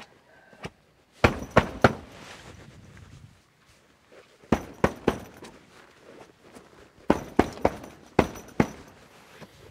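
Groups of three or four sharp knocks or thuds, each group lasting about half a second, coming every few seconds.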